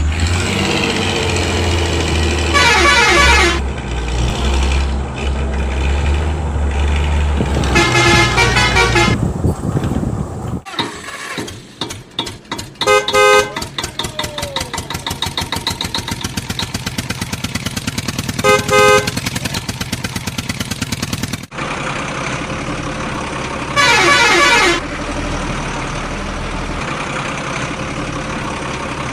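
Truck engine sound effects with horns honking every few seconds. A long honk slides down in pitch about three seconds in and again near the end, with shorter honks in between. Through the middle the engine changes to a fast, even chugging.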